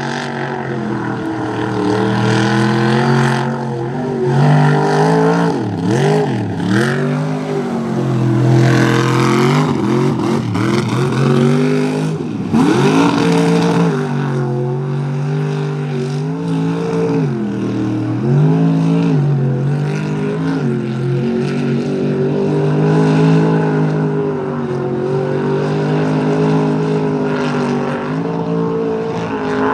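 Mud truck engine under heavy throttle, its revs falling and climbing again and again as the truck ploughs through mud, with sharp drops in pitch about 6 and 12 seconds in.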